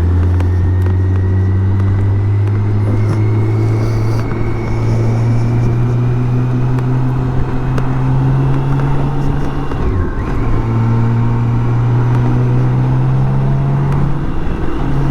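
BMW K1600 GTL's inline six-cylinder engine pulling under acceleration, its pitch rising slowly. About ten seconds in the pitch drops briefly at a gear change before climbing again.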